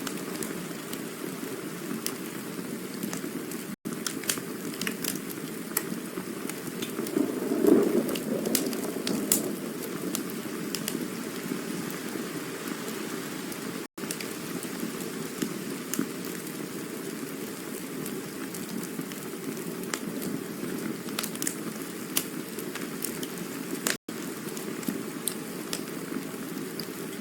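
Campfire burning with a steady low rushing hiss and scattered sharp crackles and pops. The flames swell louder for a moment about seven seconds in. The sound drops out for an instant three times, about ten seconds apart.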